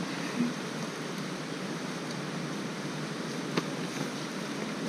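Steady rush of a waterfall's falling water, an even hiss without change, with one faint click about three and a half seconds in.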